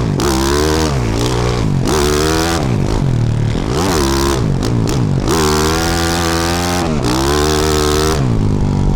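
Yamaha YZ450F's 450cc single-cylinder four-stroke engine, through a Yoshimura RS-12 exhaust, revving up and dropping off again and again as the throttle is opened and shut while riding, with short sharp dips in revs about every one to two seconds.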